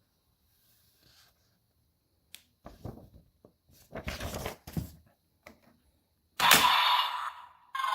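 Plastic clicks and rattles from a Bandai DX Cyclone Riser toy transformation belt being handled, then about six and a half seconds in its speaker sets off a loud electronic sound effect with a steady tone that fades out, and a second effect with sweeping pitches starts just before the end.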